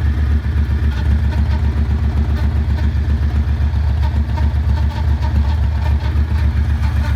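2009 Yamaha Raider's V-twin engine idling with a steady, even pulse, carrying a strange noise that the owner cannot identify.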